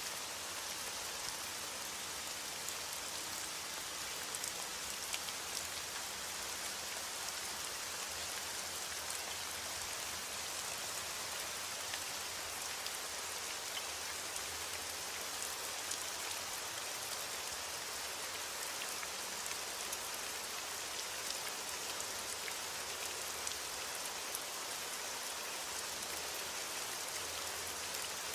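Heavy rain on a window: a steady hiss with scattered small ticks.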